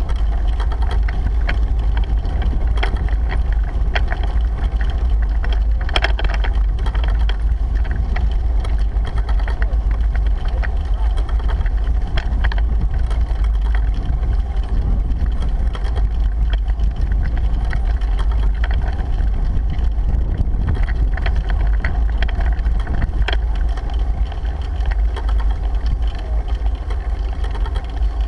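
Wind buffeting the microphone of a GoPro on a moving bicycle: a loud, steady low rumble, with occasional short clicks.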